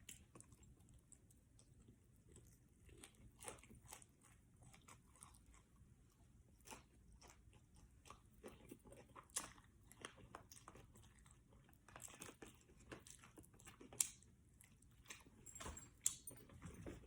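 Close-up eating sounds: fried chicken and fries being bitten and chewed, with irregular soft crunches and mouth clicks, a few louder crunches scattered through.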